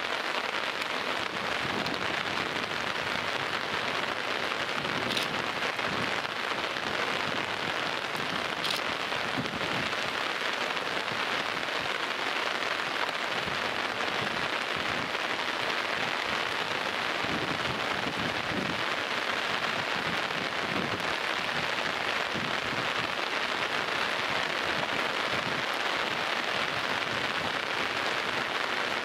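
Heavy rain pouring down steadily: a dense, even hiss of a downpour.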